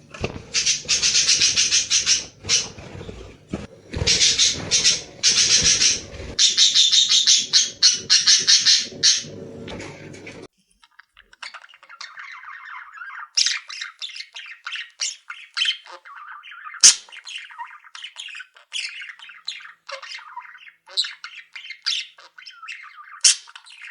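A group of small caged pet birds chattering and squawking loudly and densely, over a low rumble. About ten seconds in, the sound changes abruptly to sparser separate chirps and short calls.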